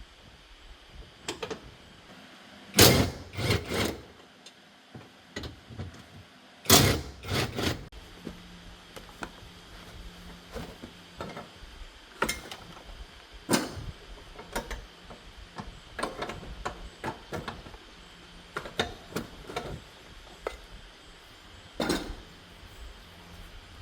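Sharp knocks and clatter: two loud clusters of three or four knocks, about four seconds apart, followed by scattered lighter clicks and knocks.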